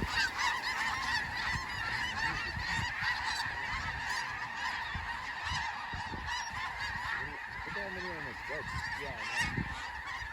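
A large flock of snow geese calling all at once, a dense, steady din of overlapping honks and yelps with no break.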